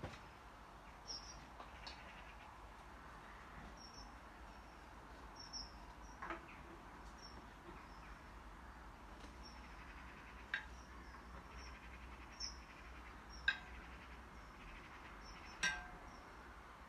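Faint room tone with a low hum, broken by a few sharp clicks and knocks, about six in all. Short high bird chirps recur between them.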